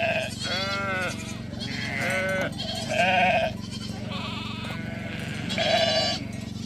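A flock of sheep and goats bleating: many overlapping calls, a new one roughly every second, some rising and falling in pitch.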